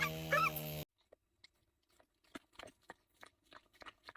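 Soft, irregular crunching clicks of a dog chewing. The chewing follows an abrupt cut under a second in from a loud steady hum with warbling chirps over it.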